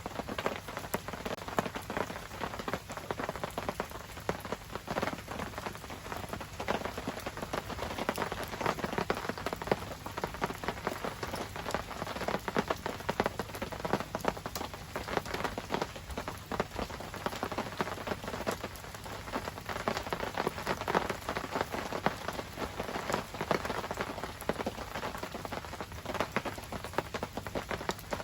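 Steady rain falling and pattering on surfaces, a dense stream of small drop impacts.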